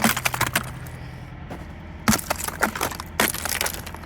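Icicles being broken: sharp cracks and the clatter of ice pieces shattering, in three clusters — right at the start, about two seconds in, and again about three seconds in.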